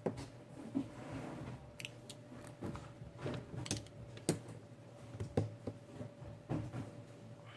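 Scattered small clicks, taps and scrapes of hand work on a smartphone during repair, over a faint steady hum.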